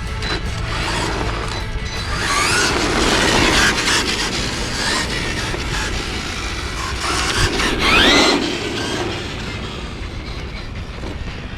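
RC monster truck's brushless electric motor whining as it is driven hard, the pitch sweeping up and back down twice, about two seconds in and again near eight seconds. Underneath, its tyres and drivetrain rumble, with short knocks and clatters as the truck hits the surface.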